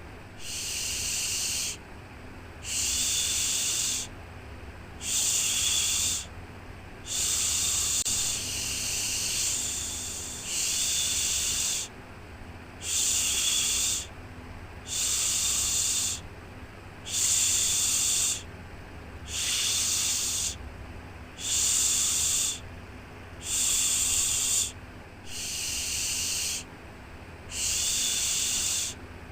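Rhythmic 'shhh' shushing for soothing a baby to sleep: one shush about every two seconds, each a little over a second long, over a steady low hum.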